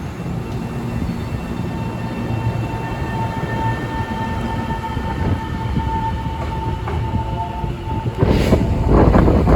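Taiwan Railways EMU700 electric multiple unit pulling out of a station: a steady rumble with a steady whine from the train. From about 8 seconds in, strong wind gusts buffet the microphone and become the loudest sound.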